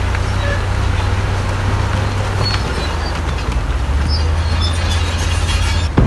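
Heavy diesel earthmoving machinery running steadily under load, a deep engine drone with faint metallic squeaks and clanks over it. The sound cuts off abruptly just before the end.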